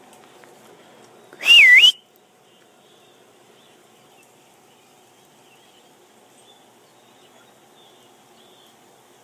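A person whistles once, loud and short, about a second and a half in: the pitch dips and then rises at the end. Faint high bird chatter continues behind it.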